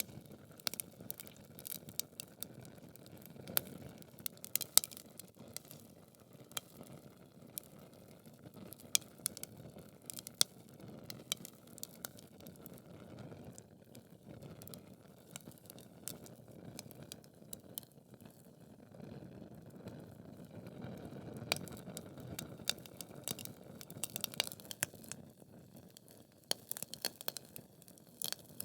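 Wood fire crackling in a fireplace: logs burning with a low steady rush of flame and irregular sharp pops and snaps, a few of them loud.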